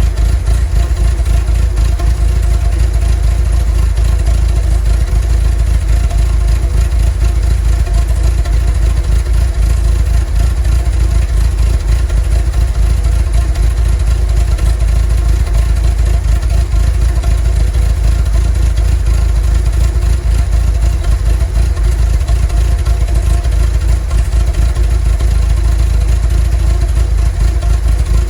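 Volkswagen T3 bus's 2.1-litre water-cooled flat-four (Wasserboxer) engine idling steadily: a low, even engine sound with a fine, fast pulse that does not change.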